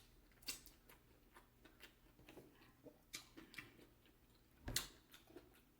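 Close-up eating sounds: quiet, irregular wet clicks and crunches of chewing fried chicken, with a louder crunch near the end.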